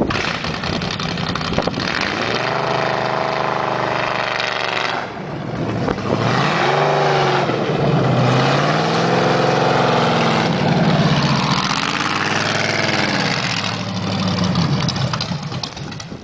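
Factory Five roadster's engine running as the car drives along the driveway, its pitch climbing and falling three times as it accelerates and eases off, over wind and road noise.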